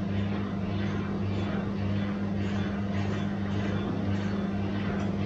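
Bosch washing machine running: a steady motor hum with a swish repeating about twice a second.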